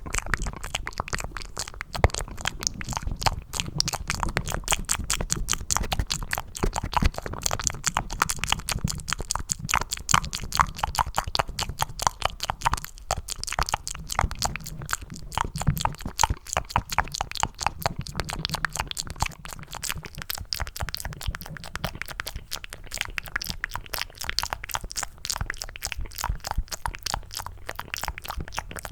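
Close-miked ASMR mouth sounds made into cupped hands: a dense, unbroken stream of quick wet clicks and smacks, several a second, meant to sound like eating mac and cheese.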